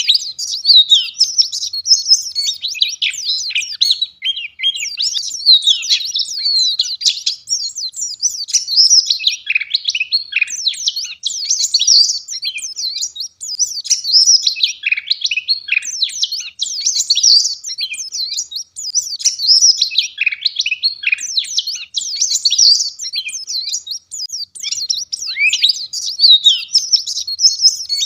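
White-eye (pleci, Zosterops) singing a rapid, high twittering warble in long, near-continuous phrases.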